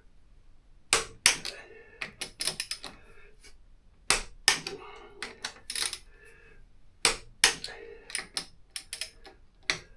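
Torque wrench ratcheting and clicking as wheel bolts are tightened in a cross pattern to a first pass of 30 Newton meters. Sharp clicks come in about three quick groups with short pauses between them.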